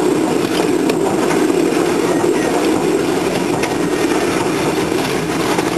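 Train running along a single-track rural line, heard from on board: a steady rumble with a few faint clicks from the wheels on the track.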